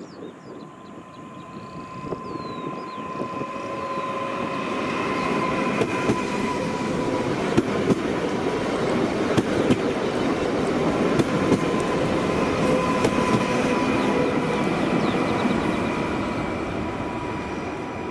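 A train passing close by, growing louder over the first few seconds and easing off near the end. Its wheels click sharply over the rail joints, and a steady high whine runs underneath.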